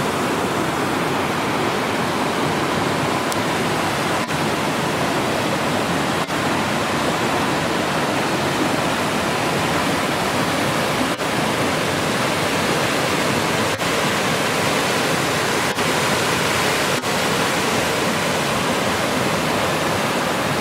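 Steady rush of water pouring over Upper Green Valley Falls and running down the river below, with a few momentary dips in level.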